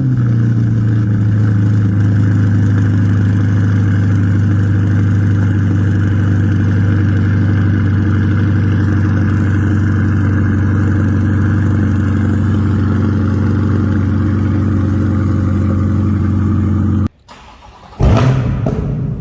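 C8 Corvette V8 idling steadily through a center-exit track exhaust, a low, even rumble. About 17 seconds in it cuts off abruptly, and a second later another engine starts with a rising flare of revs and settles into running.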